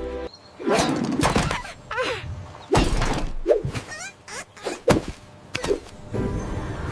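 Cartoon sound effects: a run of about five sharp thunks and whacks, with short sliding squeaky tones in between.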